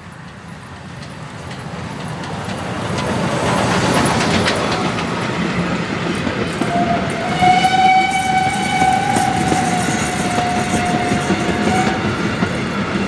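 A museum train approaching, its running noise growing louder over the first four seconds, then the locomotive sounding one long whistle from about seven to twelve seconds in, over the rolling noise of the train.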